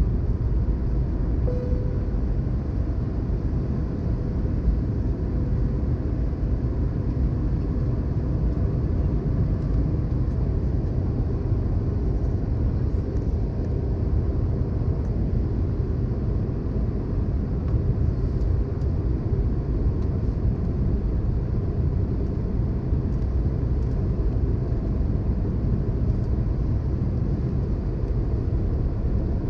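Airbus A320-214 cabin noise during the descent into landing: a steady low rumble of airflow and its CFM56 turbofan engines, heard through the cabin at a window seat.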